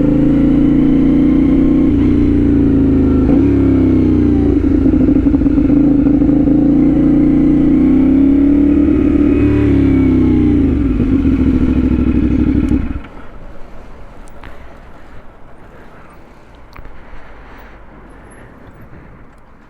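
CFMOTO 450SS parallel-twin engine running through its aftermarket slip-on exhaust, with a steady note and a couple of brief dips and recoveries in pitch. It shuts off abruptly about thirteen seconds in.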